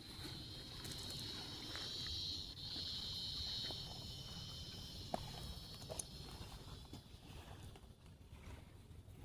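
Insects chirring in a steady high-pitched drone that swells and then fades away near the end, with a few faint clicks.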